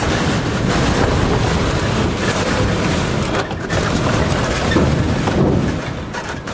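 Storm-force wind gusts buffeting the microphone: loud, rumbling gust noise that surges and eases, with a short lull about three and a half seconds in and dying down near the end.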